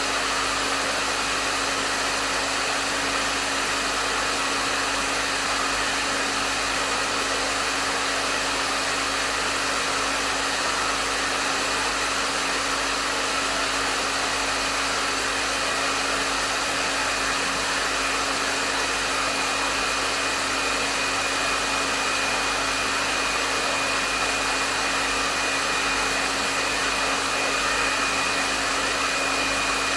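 Hair dryer blowing steadily on a medium setting: an even rush of air over a steady motor hum and a faint high whine.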